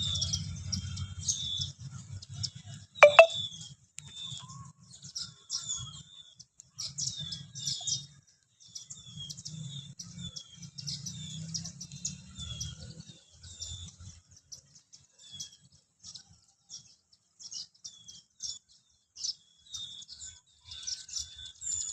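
Small birds chirping over and over in short, high calls, several at once. About three seconds in there is a single loud, sharp sound.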